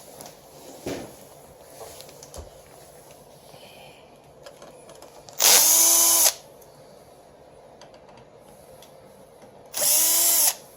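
Cordless power drill or driver run in two short bursts, each under a second, about four seconds apart, its pitch sagging as each burst stops.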